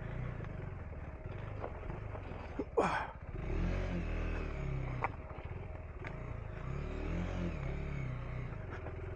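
Single-cylinder engine of a KTM 390 Enduro R dirt bike running at low revs while picking over rocky ground, the revs rising and falling twice. A few sharp knocks, the loudest just before three seconds in, come from the bike striking rocks.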